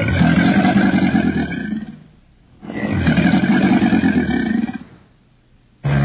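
Crocodile bellowing: long, low, rough growling calls of about two seconds each, twice with short pauses between them, and a third starting near the end.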